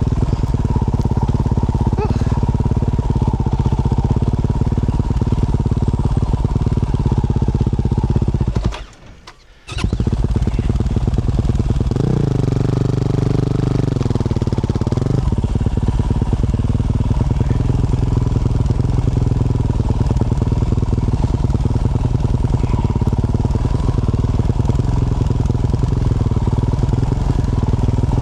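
2024 Yamaha YZ450F's single-cylinder four-stroke engine running through a Yoshimura RS-12 exhaust while riding. The sound cuts out for under a second about nine seconds in, and a tone rises and falls between about twelve and fifteen seconds in.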